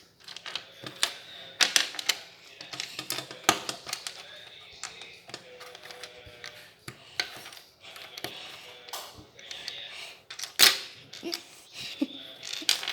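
Plastic building bricks clicking and clattering as pieces are handled and snapped together, in irregular sharp clicks and knocks, the loudest knock about four-fifths of the way through.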